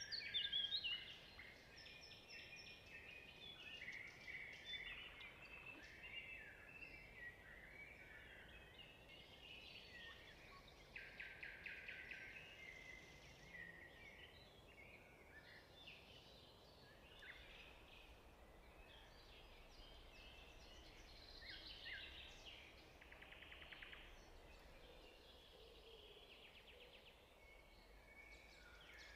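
Faint songbirds chirping and singing in many short, varied notes, with a couple of fast trills, over a low steady hiss.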